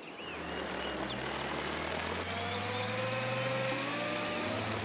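Cartoon car engine sound effect as the car drives off: a steady low hum with a faint whine that rises slowly.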